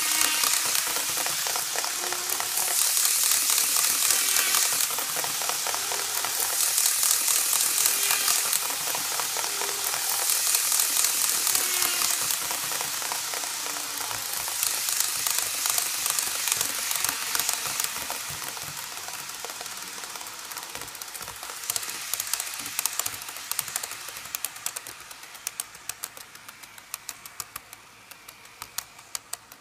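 Tomix model Kyushu Shinkansen train running on its track: a rattling clatter of wheels clicking over the rail joints, swelling and fading about every four seconds as it passes. The clatter dies away toward the end, leaving fewer, separate clicks.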